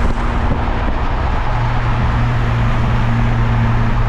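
Car driving at a steady speed, its engine holding a constant drone.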